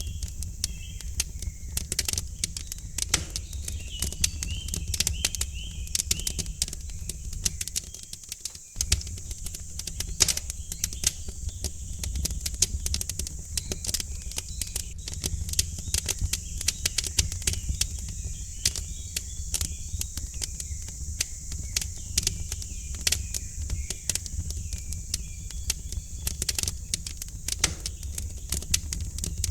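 Wood fire in a fireplace crackling with dense, irregular pops and snaps over a steady low rumble, with faint birds chirping in the background.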